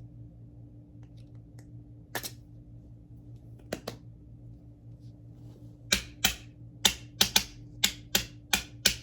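Sharp clicks and taps of small hard parts being worked by hand on a vacuum cleaner's brush roll assembly: two single taps, then a quick run of about ten taps near the end, over a steady low hum.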